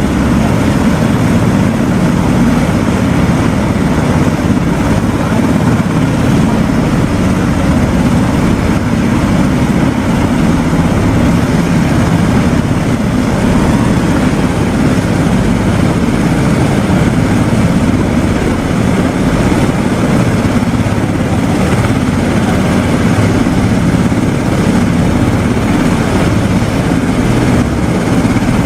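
Helicopters flying, a steady loud rotor and engine drone that stays even throughout.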